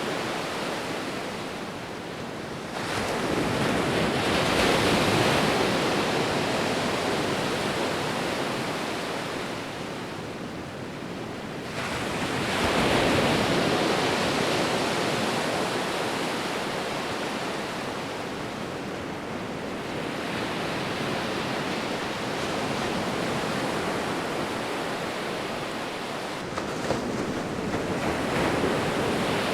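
Sea waves rolling in and breaking on a shore: a continuous surf roar that swells with each new wave, about three times.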